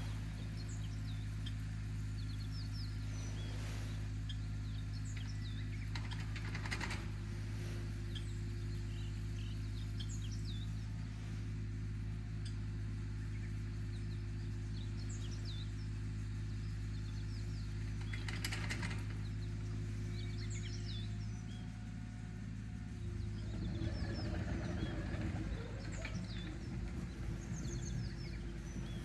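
Small birds chirping and tweeting many times over a steady low hum. A rougher, louder noise joins in near the end.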